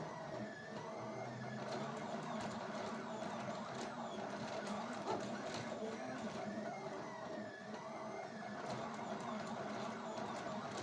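He3D K200 delta 3D printer printing: its stepper motors whine in short rising and falling tones as the print head moves, over a steady machine hum with faint ticks.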